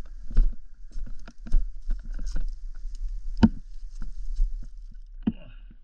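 Irregular scuffs, clatters and knocks, with one sharp knock about three and a half seconds in, over a steady low rumble.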